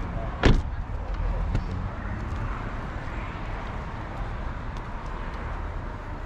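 Steady low outdoor background rumble, with a single sharp knock about half a second in and a fainter one about a second later.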